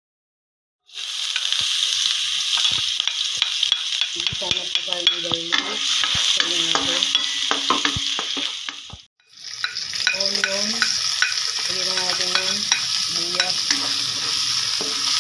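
Minced garlic sizzling in hot oil in a nonstick pan, stirred with a spatula that scrapes and taps against the pan. The sizzle starts about a second in and cuts out briefly near nine seconds before going on.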